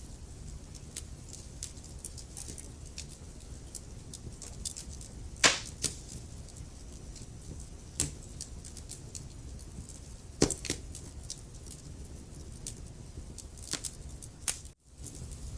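Wood fire burning in a fireplace: a steady low rumble of flames under constant small crackles, with three loud sharp pops from the logs spread through the middle. The sound cuts out for a split second near the end.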